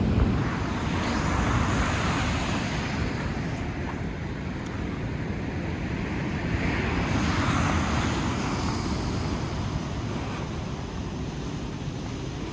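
Rough surf, big waves breaking and washing in, with two surges about six seconds apart over a steady rush, and wind rumbling on the microphone.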